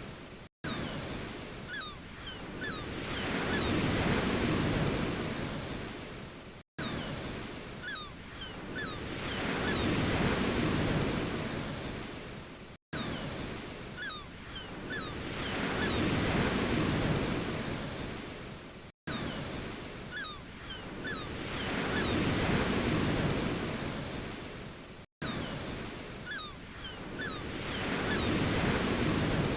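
Ocean surf: a wave swells, breaks and washes back about every six seconds. It is a short recording looped, with a brief dropout to silence between repeats and the same faint chirps in each one.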